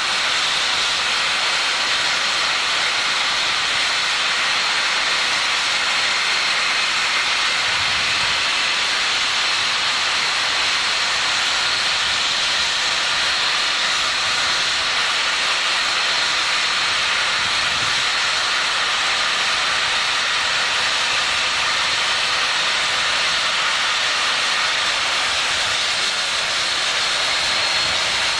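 Union Pacific 3985's Challenger steam locomotive letting off a steady, loud hiss of steam, with no exhaust beat. Two faint low thumps come about a third of the way in and again past the middle.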